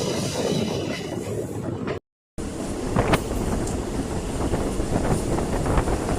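Passenger train running along the track: a steady rumble of wheels on rails. The sound cuts out for a moment about two seconds in, and after it wind buffets the microphone, with occasional sharp clacks.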